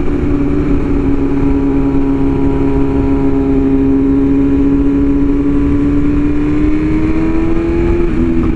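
BMW S1000RR inline-four engine running at a steady cruise. Its pitch rises slowly as it pulls and drops suddenly near the end, over a steady rush of wind noise.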